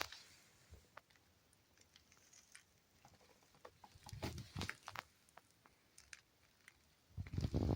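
Scattered light clicks and taps of small objects being handled, with a louder bout of clicking and low thumps about four seconds in and again near the end.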